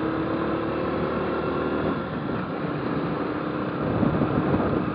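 Motorcycle engine running under way, its pitch rising slightly and then easing off about two seconds in, over steady wind and road noise.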